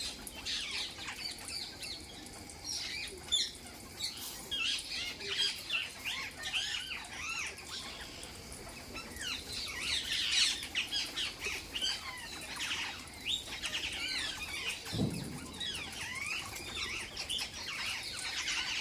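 A group of parrots squawking and chattering in many short overlapping calls, busiest about halfway through. There is a brief low thump about fifteen seconds in.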